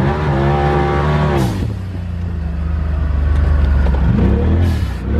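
Turbocharged side-by-side UTV engine revving under throttle. It drops off about a second and a half in, holds a steady low drone, then climbs again near the end.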